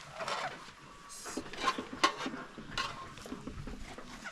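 Metal utensils and cookware clinking together: about four sharp clinks, several with a short metallic ring.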